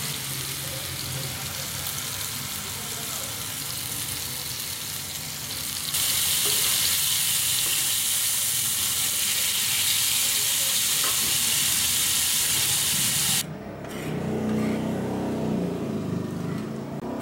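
Mutton liver sizzling in oil on a hot iron tawa while a spatula stirs it. About six seconds in the sizzle jumps louder as yogurt is stirred into the hot pan. About thirteen seconds in it cuts abruptly to a softer, duller cooking sound as the liver sits in the yogurt's liquid.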